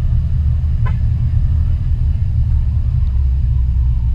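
Steady low rumble of a car driving, engine and road noise heard from a GoPro riding with the vehicle, with one short click about a second in.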